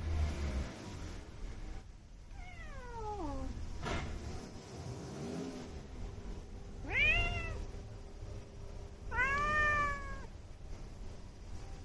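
Calico cat meowing three times. First comes a long call sliding downward in pitch, then two shorter meows that rise and fall, about seven and nine seconds in. There is a brief click near the fourth second.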